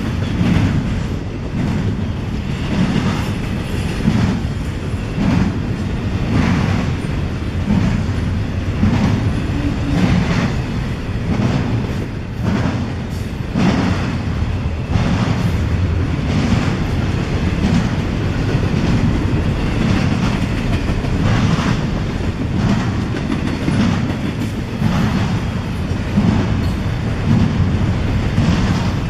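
CSX freight train cars rolling past, steel wheels clicking over rail joints in a regular clickety-clack over a steady low rumble.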